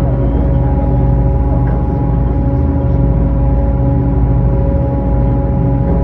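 Tour boat's engine running with a steady, unchanging drone: a deep hum with several fixed higher tones above it.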